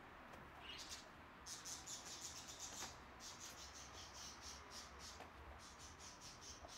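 Faint chirping of small birds: quick, high, short chirps several a second, over a low steady background rumble.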